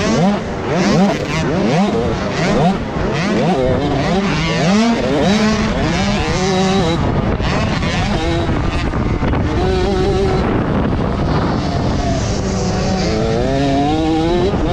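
Several motocross dirt bikes racing on the track at once, their engines rising and falling in pitch as the riders work the throttle and shift.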